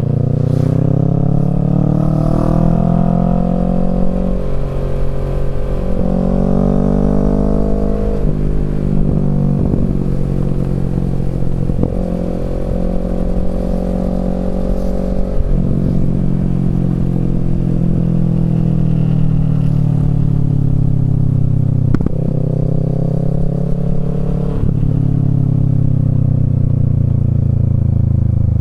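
Kawasaki Z650's parallel-twin engine through a Yoshimura Alpha exhaust, pulling hard through the gears. The pitch climbs and drops sharply several times as it shifts up, then falls away for several seconds while the bike slows, before it rises again near the end.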